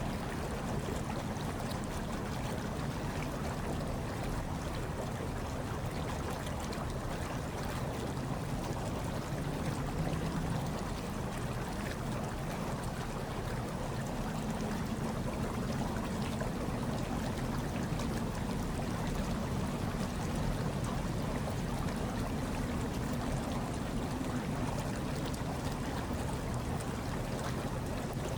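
Hot tub water bubbling and churning steadily, with a low rumble underneath.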